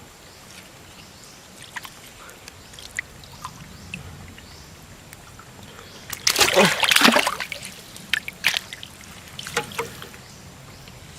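Shallow water splashing and sloshing, with small drips and trickles, a loud burst of splashing about six seconds in lasting about a second and a half, then a few short sharp splashes.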